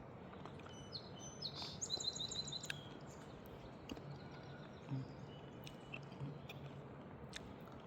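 Wild songbird calling: a quick run of high, rapidly repeated chirps about two seconds in, then a few scattered single chirps.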